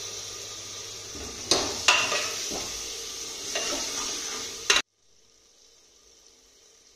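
Chopped tomatoes sizzling in hot oil and spices in an aluminium pressure cooker, stirred with a metal spoon that knocks against the pot a few times. The sizzle cuts off suddenly near the end, leaving only a faint hiss.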